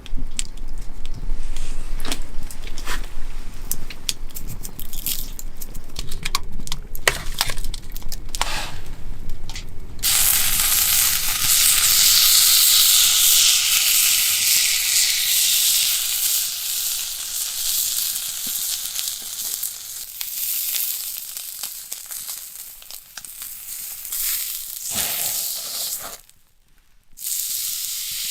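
A few seconds of clicks and knocks from handling cookware and food. Then, about ten seconds in, beef starts sizzling loudly as it hits the hot cooking surface over the campfire. The sizzle slowly eases off, breaks briefly near the end, and comes back.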